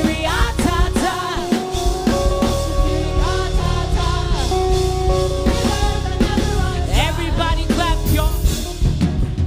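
Live gospel worship band music: drum kit and bass under sustained chords, with a singer's wordless vocal runs over the top.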